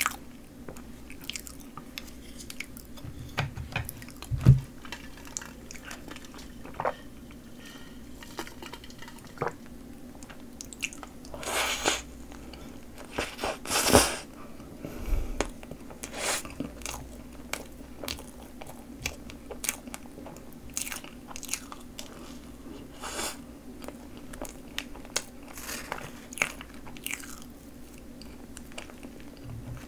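Close-miked eating: biting and chewing Choco Pie, a soft chocolate-coated marshmallow snack cake, dipped in whipped cream, with many wet mouth clicks and smacks. The loudest bite comes about fourteen seconds in.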